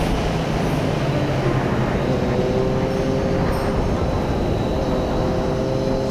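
Wind rushing and buffeting over the camera microphone of a Triumph Daytona 675R at speed on track, with the bike's inline-three engine note rising slowly underneath.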